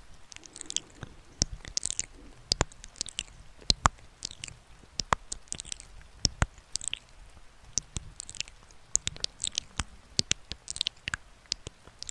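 Close-miked ASMR trigger sounds: a run of irregular sharp clicks and short, crisp, high rustling bursts, several each second.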